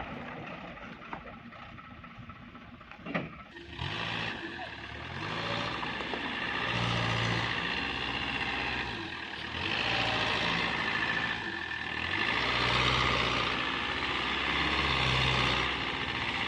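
Mitsubishi dump truck's diesel engine. After a few quieter seconds with a couple of short knocks, it revs up about four seconds in and keeps rising and falling in repeated waves.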